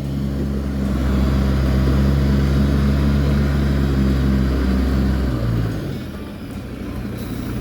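Large truck engine running steadily with a low drone as the truck is driven forward, easing off about five and a half seconds in.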